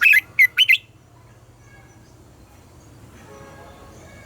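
Red-whiskered bulbul singing: a quick phrase of four loud, rising whistled notes in the first second, then a pause, with a new phrase starting at the very end.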